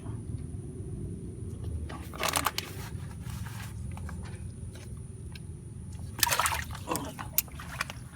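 Shallow rice-paddy water splashing and sloshing twice, about two seconds in and again about six seconds in, over a steady low rumble.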